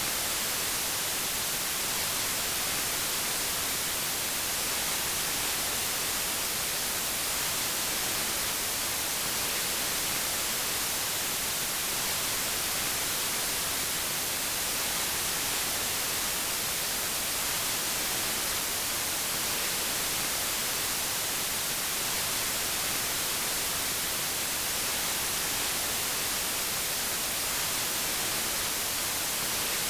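Steady white noise: an even, unchanging hiss with the most energy in the treble.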